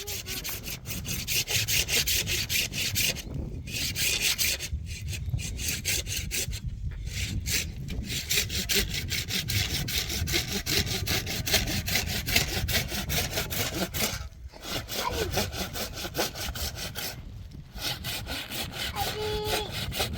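Hand saw cutting wood in quick, even back-and-forth strokes, stopping briefly several times.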